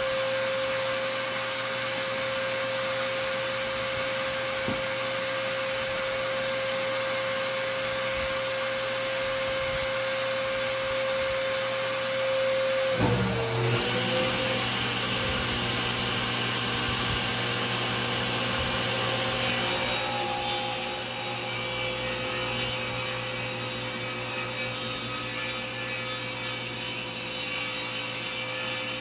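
Electric power tool running steadily while cutting wood. Its motor pitch sags briefly under load about halfway through, then recovers.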